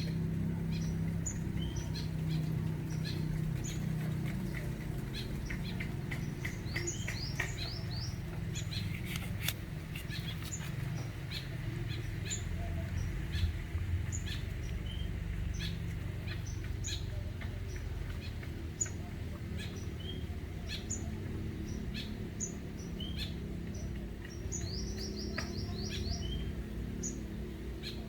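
Small birds chirping: many short, high chirps scattered throughout, with a quick run of notes about eight seconds in and another near the end, over a steady low background hum.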